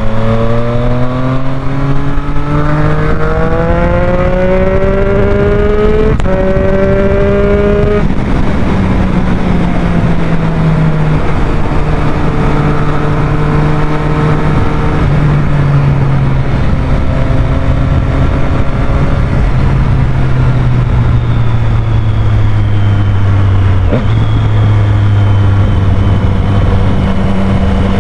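Triumph Street Triple 765's three-cylinder engine under way: it climbs in pitch for about eight seconds as the bike accelerates, then winds down slowly with a few steps as it eases off, over rushing wind noise. A single sharp click about 24 seconds in.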